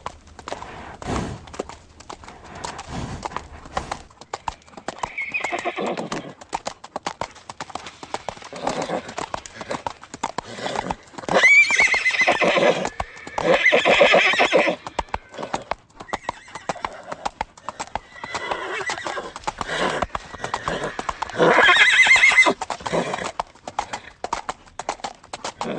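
Horse running, its hooves beating fast and steadily, with several loud neighs, the loudest about halfway through and again near the end.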